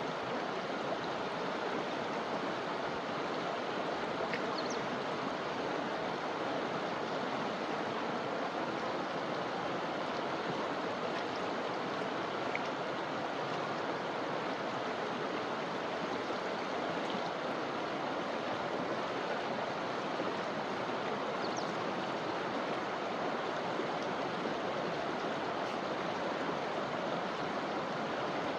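River water flowing in a steady, even rush, with a few faint, brief high chirps heard over it.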